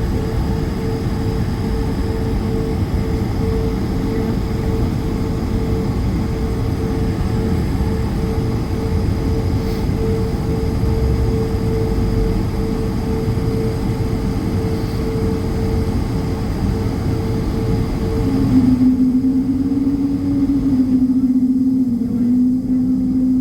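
Airbus A220's Pratt & Whitney geared turbofan engines heard from inside the cabin: a loud, steady rumble with a constant hum. About eighteen seconds in, the sound changes abruptly: the hiss drops away and a lower, slightly wavering hum takes over.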